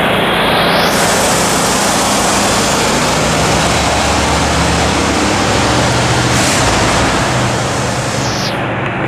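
1976 Cadillac Sedan DeVille on the move: a steady hiss of road and wind noise over a low hum from its 500 cubic inch V8.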